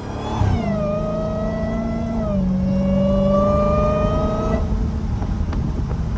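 Straight-piped Dodge Challenger Hellcat's supercharged 6.2-litre V8 pulling under acceleration. Its pitch climbs, drops once at a gear change a little over two seconds in, then climbs again until the driver eases off near the end.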